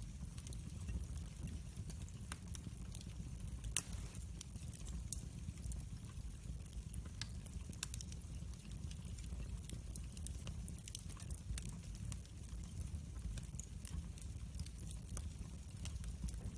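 Wood fire burning, with a steady low rumble and frequent sharp crackles and pops; one louder pop about four seconds in.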